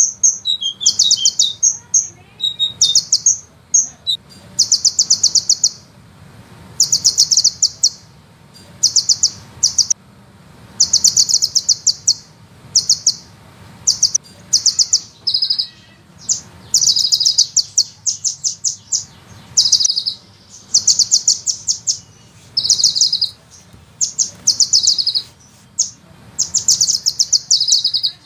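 A sunbird singing in rapid, high-pitched rattling trills. The bursts last about half a second to a second each and follow one another almost without a break; a few drop lower in pitch near their end.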